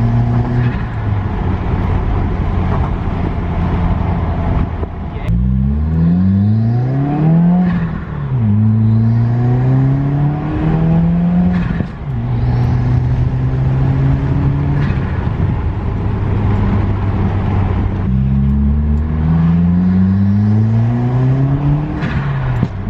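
2019 Subaru WRX's turbocharged flat-four, through an Invidia N1 single-exit race exhaust with the muffler deleted, pulling up through the gears: the pitch climbs and falls back at each of several upshifts. In between it settles into a steady low drone, heard from inside the cabin.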